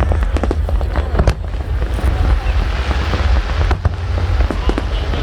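Aerial fireworks bursting and crackling over a deep, continuous rumble, with dense rapid crackle and two sharper reports, one just over a second in and one near the end.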